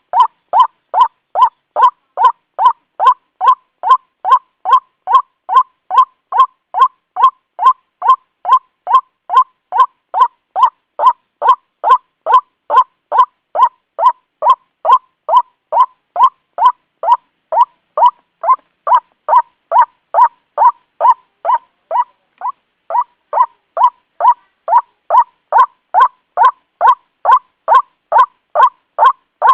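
White-breasted waterhen (ruak-ruak) calling: short, loud, identical notes repeated about twice a second in an unbroken, monotonous series, with a few slightly softer notes about three quarters of the way through.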